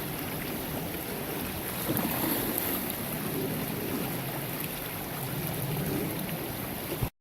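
Beaver Creek flowing steadily, with uneven wind rumble on the microphone. The sound cuts off suddenly near the end.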